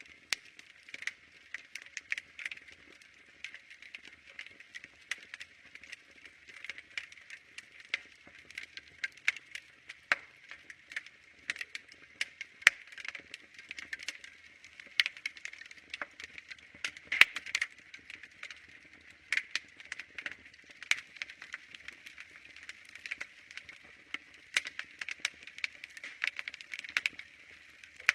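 Wood fire crackling: irregular sharp pops and snaps over a soft hiss, with a few louder pops scattered through.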